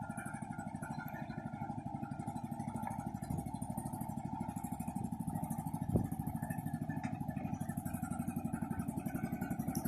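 Tractor engine running steadily at a low idle, a regular low pulsing beat, with a single sharp knock about six seconds in.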